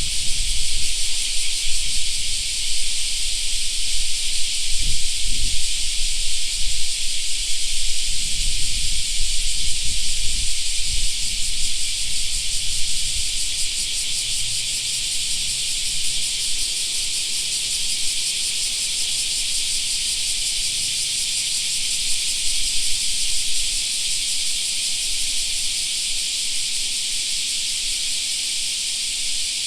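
Chorus of cicadas shrilling steadily as a dense, high-pitched hiss, with a gusty low rumble of wind on the microphone through the first dozen seconds.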